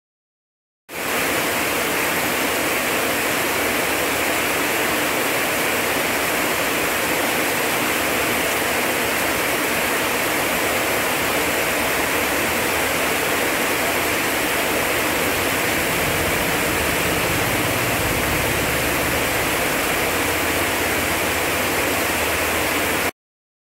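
Heavy rain pouring down in a steady hiss. It starts suddenly about a second in and cuts off abruptly near the end, with a low rumble joining in under it during the second half.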